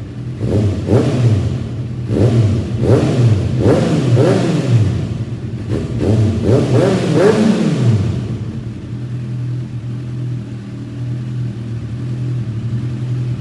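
Kawasaki ZX-6R's inline-four engine, through an Arrow aftermarket exhaust, revved in a series of quick throttle blips, each rising and dropping back, for about eight seconds. It then settles to a steady idle.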